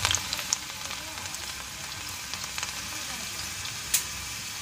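Garlic frying in hot oil in a pan: a steady sizzle with scattered crackles and one sharp pop about four seconds in.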